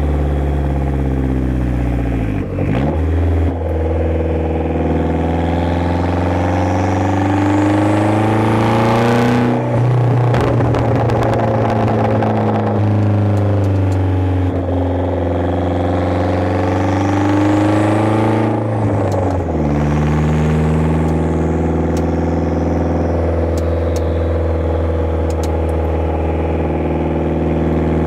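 1990 Saab 900 Turbo's turbocharged four-cylinder engine, loud through a straight-pipe exhaust, while driving. The engine note climbs with revs and drops sharply at gear changes about two and a half and nineteen seconds in, then holds steady.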